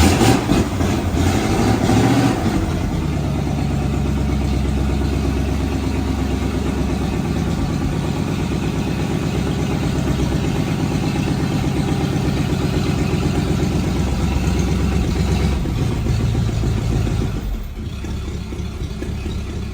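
Loyd Carrier's 85 hp Ford flathead V8 engine running, revved up briefly at the start and then running steadily, dropping to a lower, quieter run near the end.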